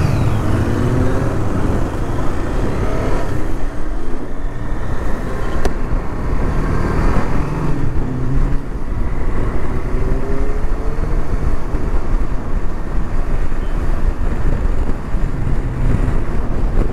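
Motorcycle engines revving up through the gears, pitch climbing several times, over steady wind and road noise at riding speed.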